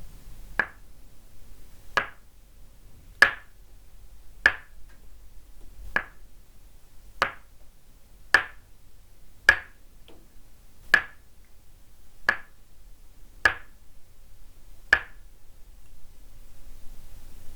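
Tok sen wooden mallet tapping a wooden peg held on the body: twelve sharp, hollow wooden knocks at an even slow pace, about one every 1.2 seconds, stopping a couple of seconds before the end.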